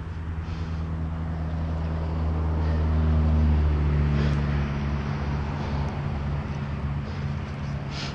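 A car's engine hum growing louder and then fading as it passes by, peaking a little past the middle, with a couple of faint clicks.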